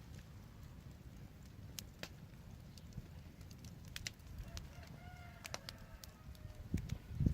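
Wood fire crackling, with scattered sharp pops over a low rumble. About four and a half seconds in, a drawn-out pitched note falls slowly for over a second, and the rumble swells near the end.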